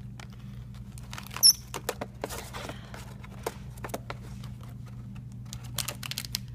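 A lovebird scrabbling and rustling among snack wrappers in a drawer, many small clicks and crinkles, with one short, loud, high-pitched chirp about a second and a half in. A steady low hum runs underneath.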